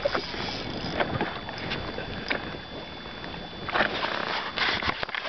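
Wind and water noise aboard a small fishing boat, with a few scattered clicks and knocks. A faint steady high tone stops near the end.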